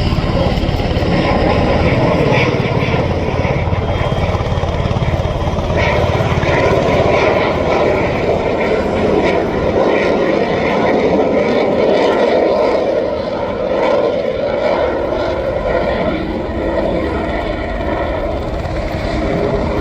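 Propeller aircraft engine running steadily, with no clear rise or fall.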